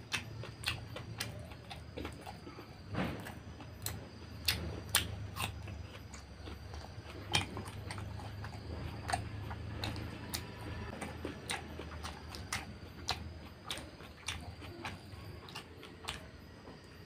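Close-miked chewing of rice and fatty pork curry: irregular wet mouth clicks and smacks, some louder than others.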